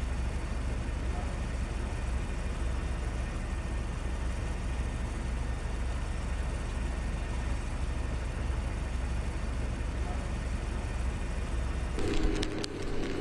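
Steady low outdoor rumble. Near the end it changes abruptly to a different scene with sharp clicks and a steady low hum.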